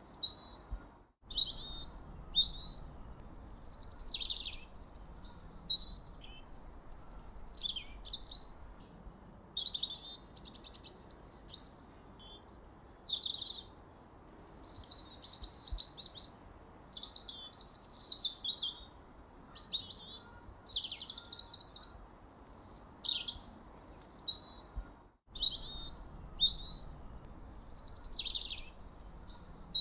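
Birds chirping and singing, many short falling whistled notes overlapping without pause, over a faint steady background hiss. The sound cuts out for an instant twice, about a second in and near the end.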